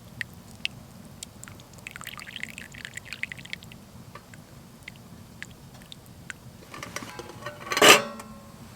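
Pine needle tea being poured from a pot into a cup in a thin trickle, with light clicks and knocks of the pot and cup. One loud, short sound comes near the end.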